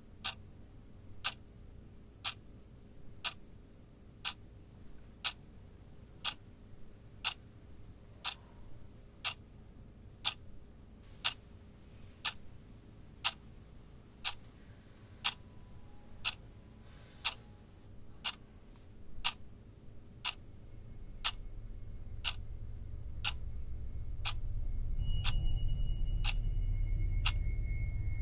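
Clock ticking steadily, about one tick a second. A low drone swells up over the last third, and a steady high tone joins it near the end.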